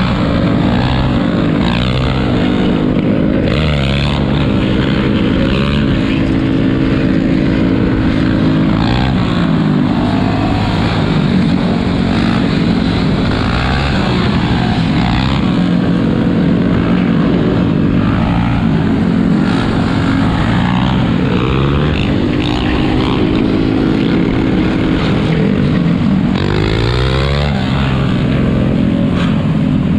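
Several ATV and motorbike engines running together and being revved, their overlapping pitches rising and falling.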